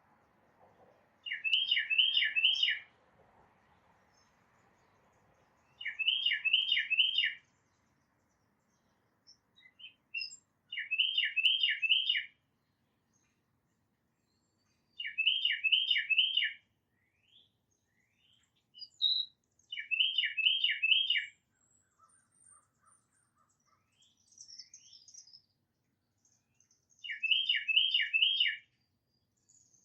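Tufted titmouse singing its clear whistled 'peter-peter-peter' song: six phrases of four slurred notes, repeated every four to five seconds. Faint chips and calls of other small birds come between the phrases.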